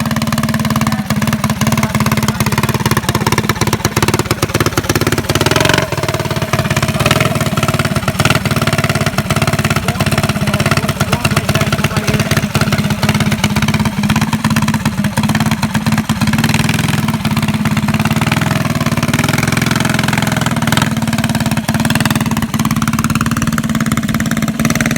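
Mini bike's 212cc Predator single-cylinder four-stroke engine running loudly, its speed drifting up and down a little as the throttle is worked.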